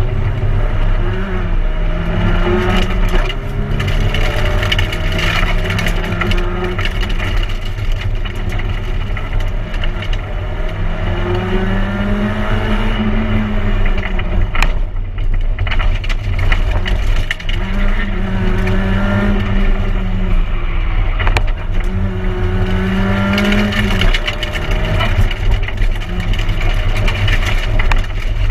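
Peugeot 106 1600 rally car's engine heard from inside the cabin at stage pace, its pitch rising and falling again and again as it accelerates, lifts and changes gear, over steady road and drivetrain rumble. A few sharp knocks, such as about halfway through and again a few seconds later.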